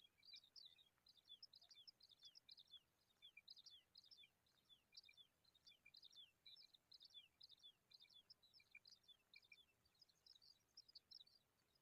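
Small birds chirping faintly in a rapid, continuous stream of short, high, thin notes, several a second, many of them quick downward slurs.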